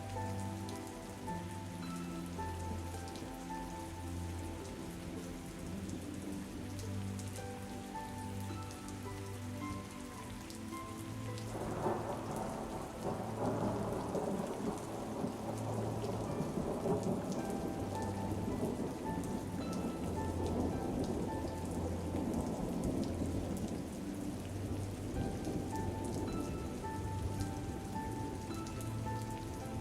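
Steady rain with soft, slow music underneath. About twelve seconds in, a roll of thunder breaks in and rumbles for around ten seconds before easing back into the rain.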